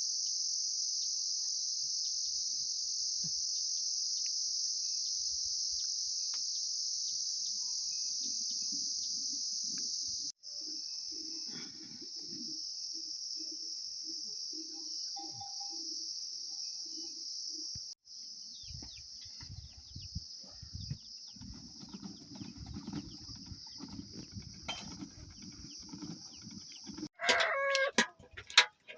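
A continuous high-pitched drone of shrilling insects, broken off abruptly twice. About two seconds before the end comes a short, loud animal call with a clear pitch.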